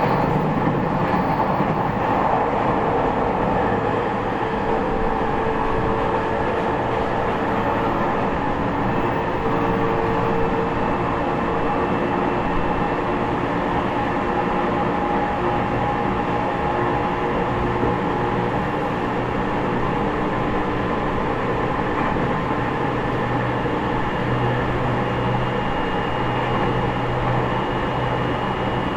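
Running noise heard inside an E501 series electric multiple unit, motor car MoHa E501-8 with Toshiba IGBT inverter drive, travelling between stations: a steady rumble of wheels on rail with a few faint steady tones over it.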